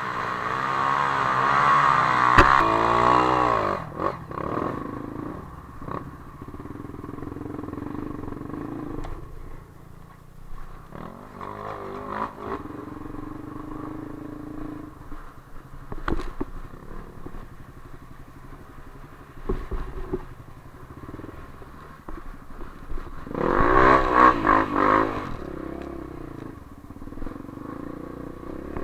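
Dirt bike engines revving hard for the first few seconds and again about 24 seconds in, running at lower revs in between, with scattered clattering knocks.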